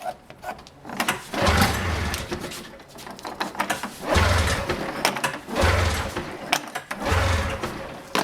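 Snowmobile recoil pull-starter being yanked over and over, about one pull every one and a half seconds. Each pull turns the two-stroke engine over without it catching, because the ignition key is still off.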